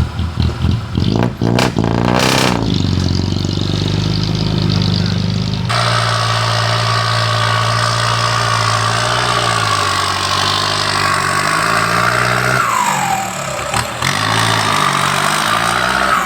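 Heavy machinery engine running steadily. About a third of the way in the sound changes abruptly, adding a hiss and a high whine that slides down in pitch near the two-thirds mark.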